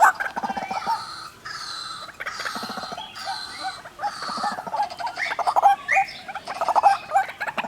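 A male and a female white-breasted waterhen calling over and over, fast rattling call trains and shorter repeated notes overlapping each other.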